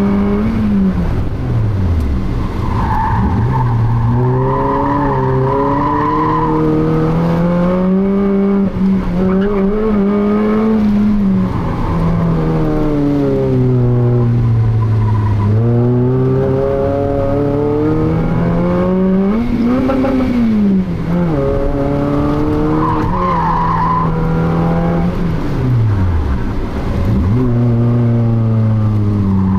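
Small hatchback's engine heard from inside the cabin while driven hard on a circuit, its pitch climbing under throttle and dropping sharply on lifts and gear changes. The tyres squeal through corners about three seconds in and again near the end.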